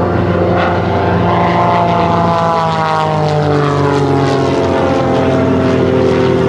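Eagle aerobatic biplane's piston engine and propeller running hard during a display pass, the engine pitch falling steadily through the middle of the pass.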